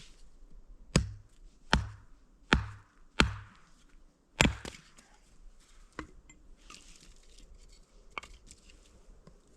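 Chopping: five hard, sharp blows about a second apart, each with a dull thud, followed by two lighter knocks later on.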